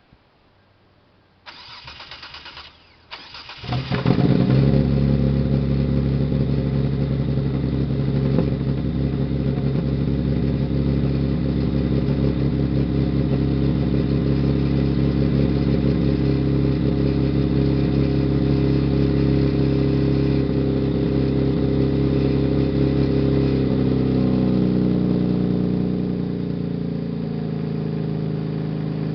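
A 2005 Hyundai Tiburon's 2.7-litre V6, exhausting through Magnaflow straight pipes and DC headers, is cold-started. The starter cranks for about two seconds before the engine catches, then it runs at a steady high cold idle. The idle drops lower about 25 seconds in.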